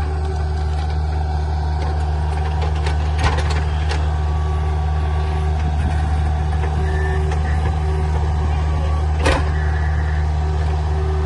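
Heavy diesel equipment engine running steadily under load, with a cluster of sharp cracks about three seconds in and one louder crack near nine seconds.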